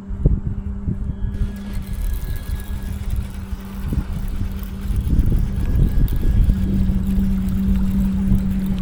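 Newport NK180HD electric kayak motor humming steadily, getting louder about two thirds of the way in as it speeds up, over an uneven low rumble.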